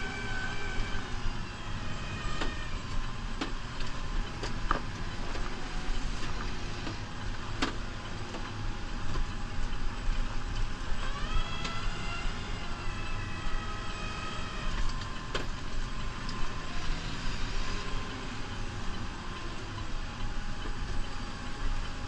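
New Holland Powerstar 75 tractor's four-cylinder diesel running steadily while plowing snow, with a whine that rises in pitch twice, near the start and about halfway through. A few sharp clicks or knocks come through over the engine.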